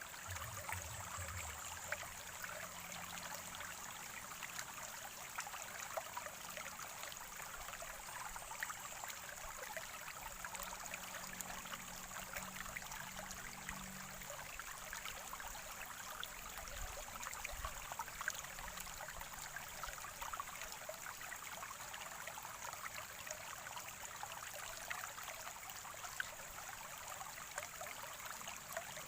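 Small spring-fed stream gurgling and trickling steadily over stones, with a constant patter of tiny splashes.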